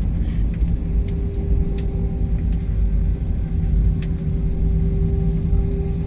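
Passenger jet cabin noise during landing: a steady, loud low rumble with an even hum running through it, and a few light clicks or rattles.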